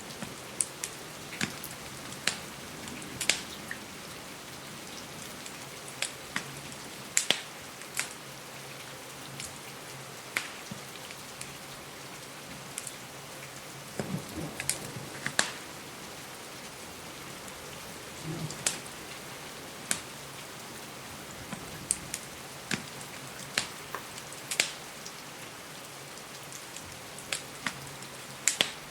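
Steady rain falling, with irregular sharp pops and snaps of a crackling wood fire scattered through it, a few dozen in all.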